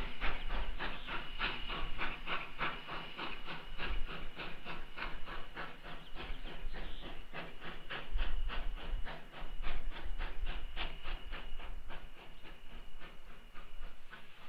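V&T #29, a 2-8-0 steam locomotive, working hard up a steep curve: rhythmic exhaust chuffs, about four a second, over a steady hiss of steam.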